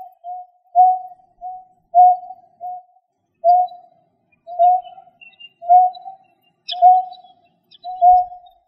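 A bird calling a steady series of short, low hooting notes, all on one pitch, about one a second, played as a lure call. A few faint high chirps sound about two-thirds of the way in.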